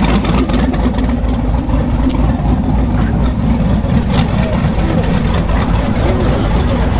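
A car engine idling close by, a steady deep rumble.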